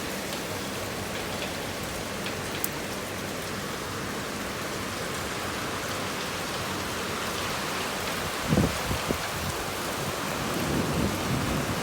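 Heavy rain falling steadily on surfaces, with a few short louder knocks of drops about eight and a half seconds in and again near the end.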